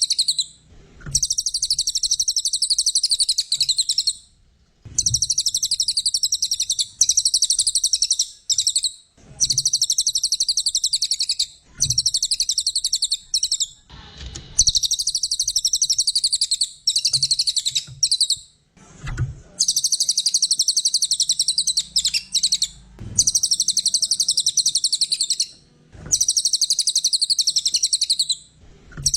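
Brown cililin singing: bouts of rapid, high-pitched chattering trills, each two to three seconds long, repeated over and over with short pauses between them.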